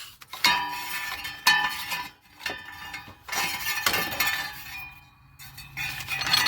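Metal hand tools clinking and ringing against the engine's fan bolts as they are worked loose, in about five short bursts.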